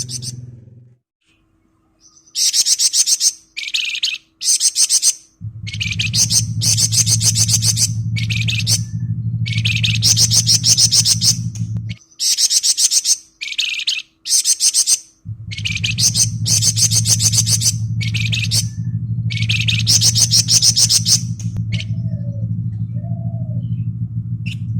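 The songbird known to Indonesian bird keepers as 'flamboyan' singing its fast, dense 'ngebren' chatter: about a dozen short bursts of rapid, high, buzzy trills with brief pauses between them. A low steady hum runs under most of it, dropping out for a few seconds midway.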